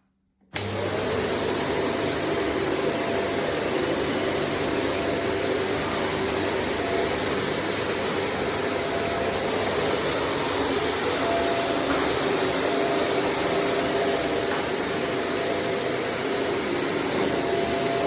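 Shark corded upright vacuum cleaner switched on about half a second in, its motor then running steadily with a constant whine over a loud rush of air.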